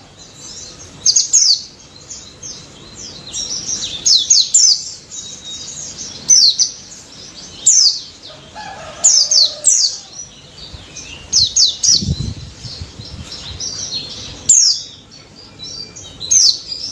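White-eye (pleci) singing in loud, fast bursts of high notes that fall quickly in pitch, each burst lasting under a second and repeated every second or two, with softer chirps in between. A brief low rumble comes about twelve seconds in.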